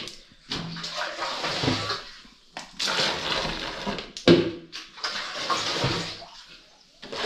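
Water sloshing and pouring in three bursts, with a sharp knock about four seconds in.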